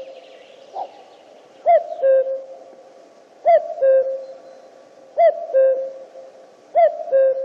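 Common cuckoo (Cuculus canorus) calling its two-note "cu-ckoo", a higher note dropping to a lower one. The call repeats four times at an even pace of about one call every second and a half.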